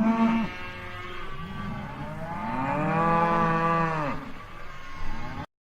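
Cow mooing: the tail end of one call, then one long moo of about two and a half seconds that rises and falls in pitch.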